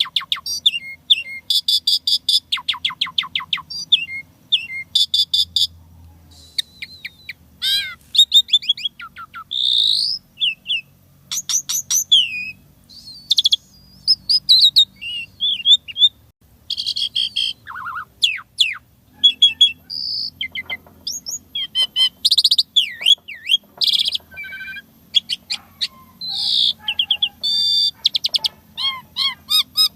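Asian pied starling (jalak suren) singing a fast, varied song of chattering rattles, stuttering repeated notes, slurred whistles and squeaks, delivered without a break.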